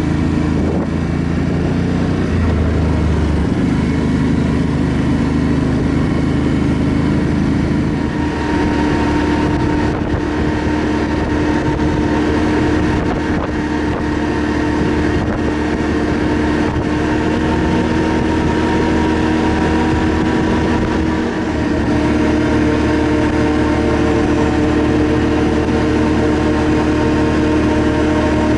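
ATV engine running steadily while riding, its note changing slightly about eight seconds in and again later on.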